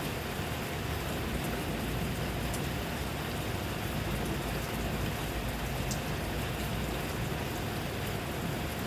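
Steady rainfall, an even hiss with faint individual drops ticking now and then.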